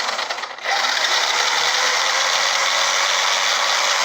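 Electric motor and gear drivetrain of a WLtoys 12423 RC short course truck running with the wheels spinning off the ground, a steady whirring drone. It drops briefly about half a second in, then runs on steadily.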